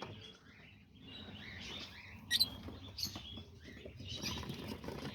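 Small pet parrots (lovebirds, budgies and cockatiels) in an aviary giving a few short, faint chirps over soft rustling.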